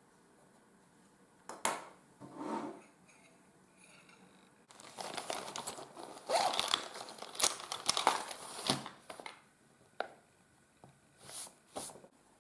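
Crinkling and crumpling of something being handled by hand, in irregular bursts, densest and loudest in the middle, with a few short crinkles near the end.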